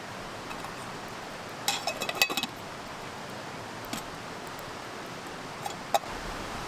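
Metal cookware and utensils clinking: a quick cluster of clinks about two seconds in, then single clicks later on, over a steady hiss.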